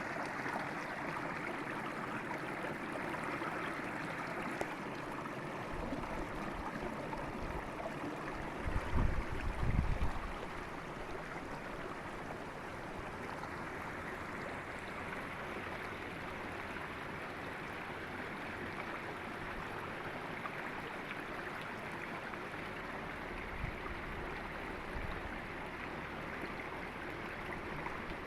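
River water flowing steadily, with a short low rumble about nine to ten seconds in.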